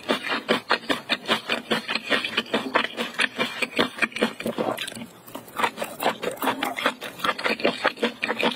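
Close-miked wet chewing of spicy octopus tentacle: rapid sticky mouth clicks and smacks, several a second, easing briefly about five seconds in.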